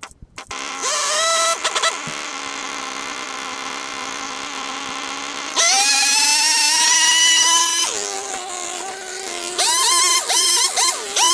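Small two-stroke petrol engine of a garden power tool starting up about a second in and running at idle. It revs up hard about five and a half seconds in, drops back after a couple of seconds, then is blipped up and down several times near the end.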